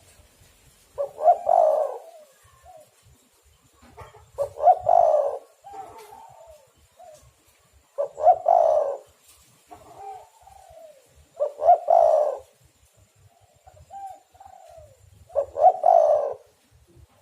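Spotted dove cooing: a loud, rough coo phrase about every three and a half seconds, five times in all, with softer, falling coo notes between the phrases.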